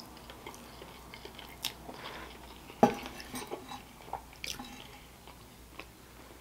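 Close-miked chewing of mac and cheese, soft wet mouth sounds with scattered small clicks, and one sharper click about three seconds in.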